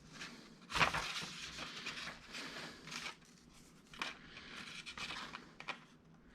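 Hands handling small metal parts and packaging: a sharp click about a second in, then rustling and crinkling, with a few more light clicks later.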